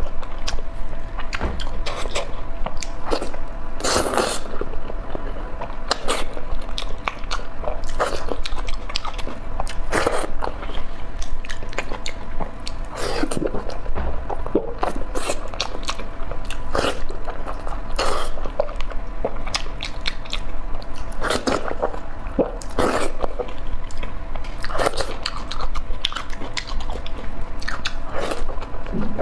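Close-miked mukbang eating sounds: a person biting and chewing sticky braised meat, with irregular wet mouth smacks and clicks about every second.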